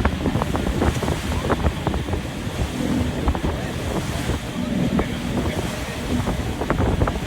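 Wind buffeting the microphone over water splashing and slapping against a boat's hull, with a low steady rumble underneath.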